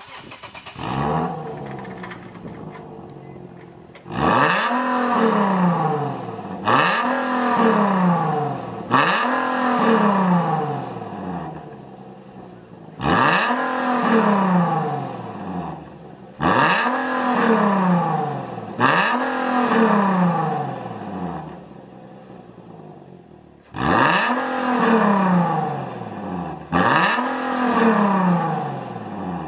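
Infiniti G37 coupe's 3.7-litre V6 running through an aftermarket WABBP valved muffler exhaust. It idles, then is free-revved eight times, each a quick blip whose pitch falls away as it drops back to idle.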